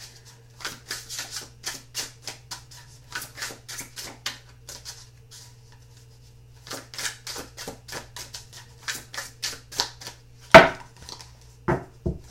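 A brand-new deck of tarot cards being shuffled by hand: a quick run of light card flicks and slaps, pausing briefly about halfway, then a few louder knocks near the end.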